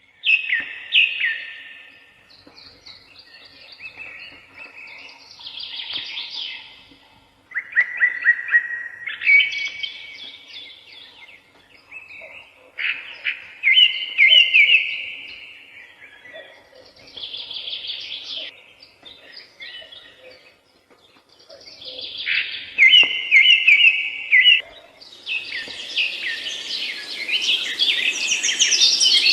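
Birds singing in short phrases of rapid chirps and trills, a new phrase every few seconds with brief pauses between. Near the end several calls overlap into a denser, louder chorus.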